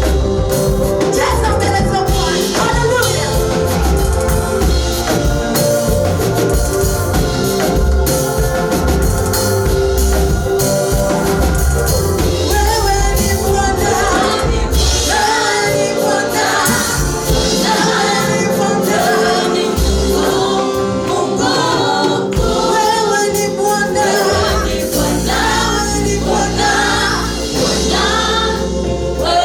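Gospel choir singing a praise song over band accompaniment with bass and a steady beat; the voices come in more strongly about halfway through.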